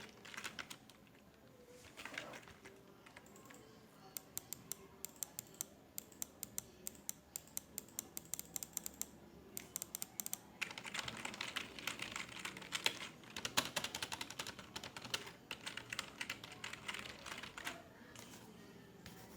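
Typing on a computer keyboard: a run of separate key clicks, then a faster, denser flurry of keystrokes from about ten seconds in until near the end.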